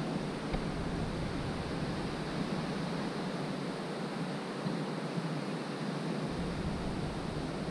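Steady rushing of water falling at a waterfall, with low wind rumble on the microphone at the start and again near the end.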